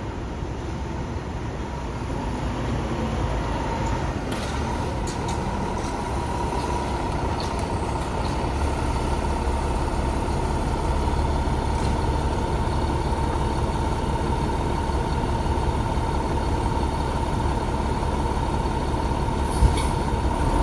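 Fire engine's diesel engine running with a steady whine, slowly growing louder. A few clicks about four seconds in and one short sharp sound near the end.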